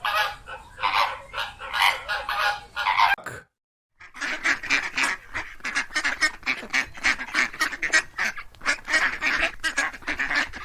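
A flock of flamingos honking for about three seconds. After a short break, a flock of ducks quacking in rapid, overlapping calls.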